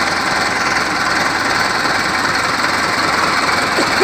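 Mahindra Arjun tractor's diesel engine running steadily.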